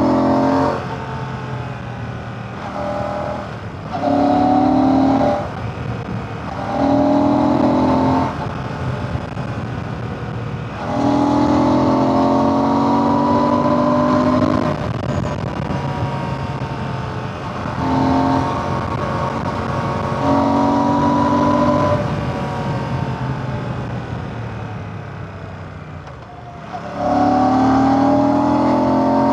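Royal Enfield Classic 650's 648cc air/oil-cooled parallel-twin engine, heard onboard while riding. It pulls under throttle in repeated spells of rising pitch, broken by gear changes, and drops back between them to quieter off-throttle running with falling pitch. The longest pull comes a little over a third of the way in, and a long easing-off comes before a final pull near the end.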